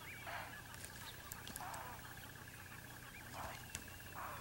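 Faint wild bird calls: about four short, harsh, caw-like notes spread through, over a faint steady high trill.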